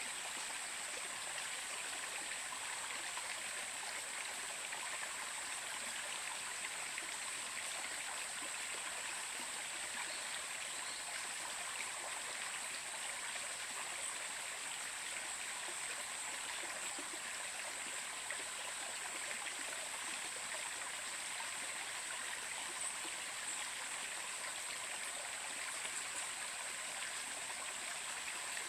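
Stream water flowing steadily over rocks: an even rushing with a constant high hiss above it.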